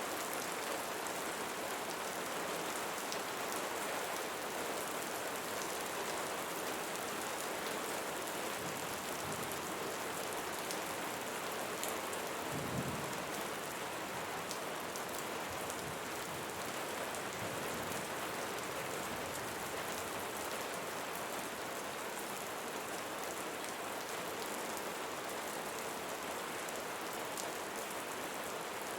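Steady rainfall: a constant hiss with scattered drop ticks, and a short low rumble about halfway through.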